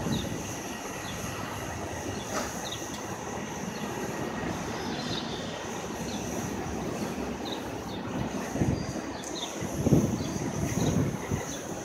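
A train running past a station platform, with a steady rumble, short high squeaks scattered through it and a few heavier low knocks near the end.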